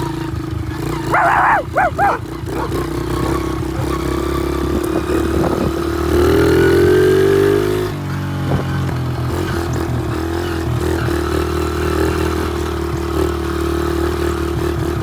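Pit bike engine running steadily, revving up around six seconds in and dropping back about two seconds later. A few short, high-pitched yelps about a second in.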